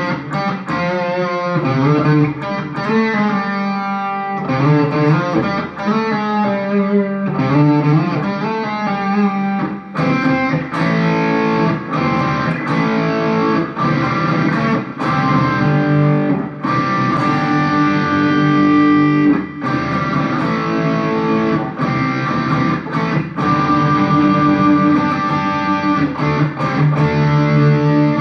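Electric guitar played through a Mooer GE100 Pro multi-effects processor running one of its presets: wavering, bent notes for the first several seconds, then held chords and riffs that stop right at the end.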